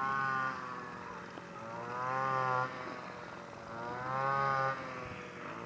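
Grass-cutter engine driving a rice thresher, revving up and easing off again about every two seconds, three times.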